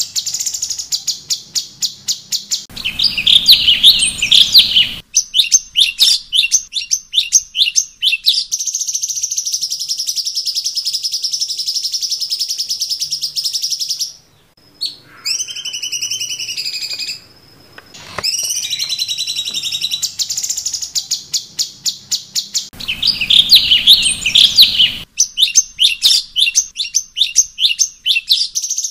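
Cucak cungkok songbird singing loud, clear song: runs of rapid repeated chip notes alternating with long, high buzzing trills, with a short pause about halfway through. The same song phrase comes round again about twenty seconds later, as in a looped training recording.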